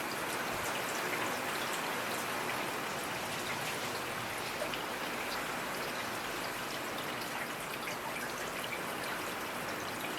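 Steady rainfall, many individual raindrops pattering as fine ticks over a continuous hiss of rain.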